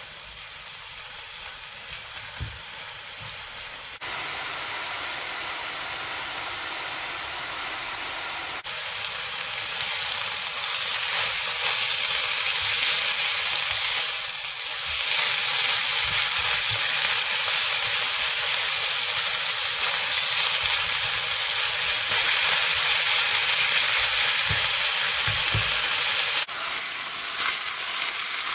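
Grated eggplant frying in olive oil in a nonstick pan, a steady sizzle, with the scrape of a silicone spatula stirring it. The sizzle gets louder about nine seconds in.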